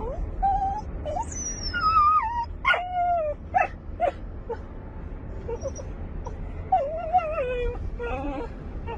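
An injured dog whimpering and yelping in distress: high, wavering whines that fall in pitch, several short sharp yelps about three to four seconds in, and another run of whines near the end.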